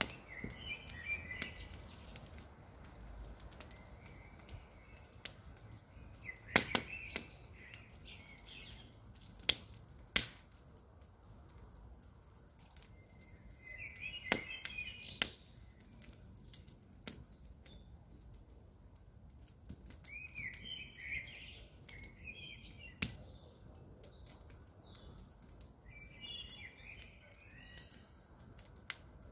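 Campfire burning, with scattered sharp crackles and pops of burning wood over a low steady hiss. Birds chirp in short phrases every few seconds in the background.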